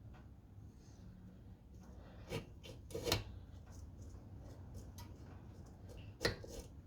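Small metal parts of a Honda GX110 engine's carburetor linkage being handled and worked loose by hand: faint rubbing and scraping, with three short louder scrapes about two and a half, three and six seconds in, over a faint low hum.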